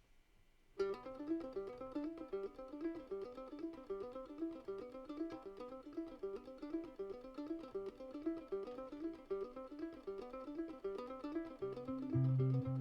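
Instrumental intro on a plucked string instrument, a quick repeating picked figure that starts about a second in. Low bass notes join near the end.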